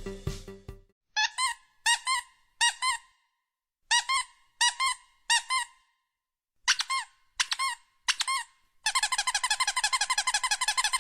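High-pitched squeaks in three sets of three short squeaks, each squeak bending up and then down. Near the end comes a fast run of squeaks lasting about two seconds.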